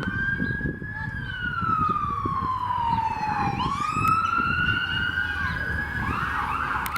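Emergency vehicle siren wailing, its pitch slowly rising, falling over a couple of seconds, then rising again, over a steady background rumble.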